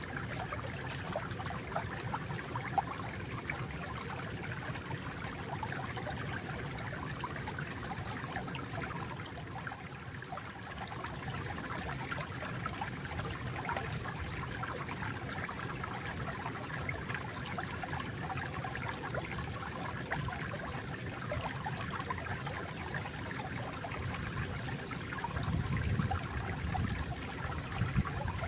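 Flowing water: a small stream trickling and babbling steadily, with a deeper surge of water near the end.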